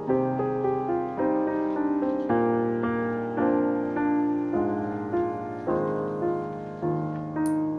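Background piano music, gentle notes and chords struck every half second or so, each fading away.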